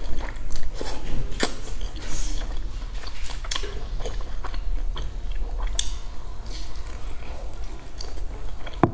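Close-up eating sounds: biting and chewing a pan-fried stuffed flatbread, with wet mouth noises and scattered sharp, crisp clicks from the crust.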